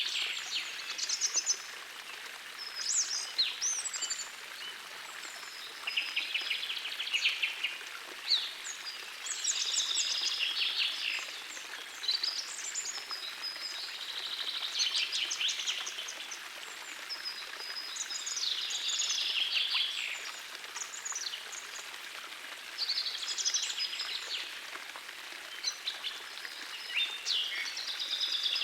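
A songbird singing short, rapid trilled phrases, about one every three seconds, over the steady rush of a gentle forest stream.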